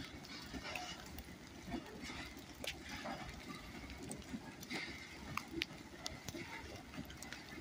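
Faint low rumble of loaded freight cars (trash cars) rolling slowly past, with scattered sharp ticks.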